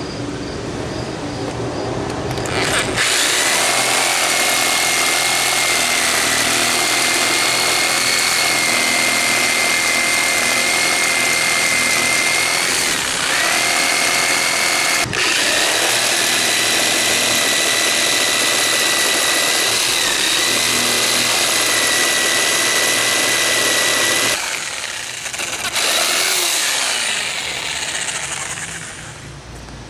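Power saw with a multi-purpose blade cutting into the trailer door to open a space for the lockset: a steady high motor whine over a harsh cutting buzz. The cut is interrupted briefly twice near the middle and stops a few seconds before the end, then the saw runs again briefly and winds down with a falling pitch.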